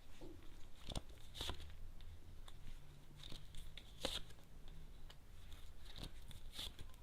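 Tarot cards being handled, drawn and laid out: a few separate soft papery snaps and rustles, the sharpest about four seconds in.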